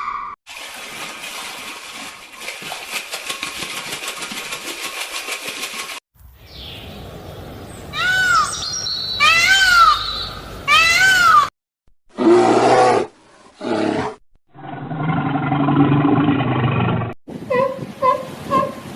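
A run of different animal calls, one short clip after another with abrupt cuts: a noisy stretch, then three loud rising-and-falling calls, two short calls, a low drawn-out call, and quick repeated short calls near the end.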